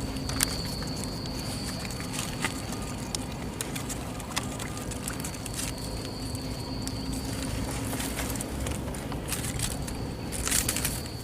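Outdoor field ambience: a steady low rumble with scattered light clicks, and a thin high steady tone that comes in three times, about a second or two each.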